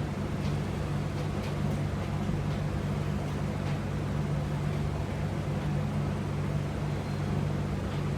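Steady low hum with a few faint clicks over it.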